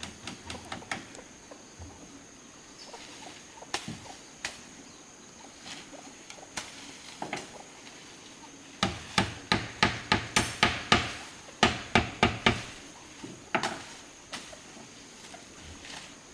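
A series of sharp knocks, scattered at first, then a quick run of about a dozen loud strikes at three to four a second in the middle, like a tool chopping or striking.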